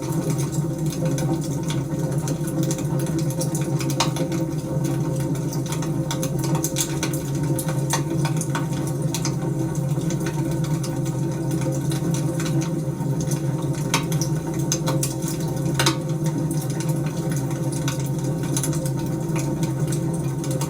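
Wood fire crackling steadily over a constant low rumble, with frequent sharp pops and snaps scattered through it.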